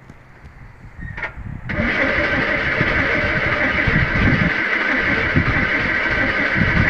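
A Metropolitan car's engine being started: a short lead-in about a second in, then from about two seconds in a loud, steady engine noise that keeps going.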